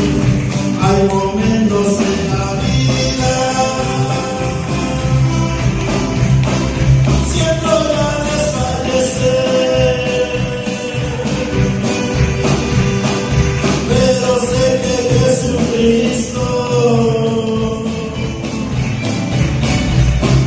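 Live church worship music: a singer holding long sung notes over a band accompaniment, with jingling percussion.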